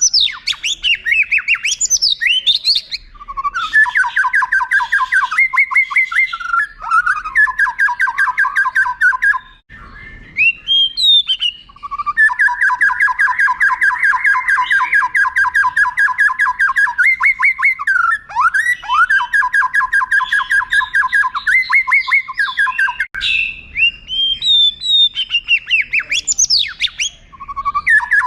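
White-rumped shama singing: long, fast rolling trills of evenly repeated notes, each lasting several seconds, broken by quick sweeping whistles. The song pauses briefly about ten seconds in.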